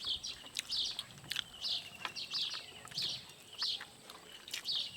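Small birds chirping: short, high repeated notes with a few brief trills. A few sharp clicks sound now and then as well.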